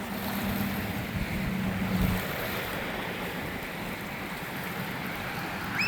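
Ocean waves washing on the shore, with wind buffeting the microphone. A steady low hum runs under it for about the first two seconds.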